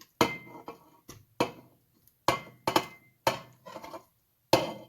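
About six separate knocks and clanks as chicken thighs are put into an Instant Pot's steel inner pot, a couple of them with a brief metallic ring.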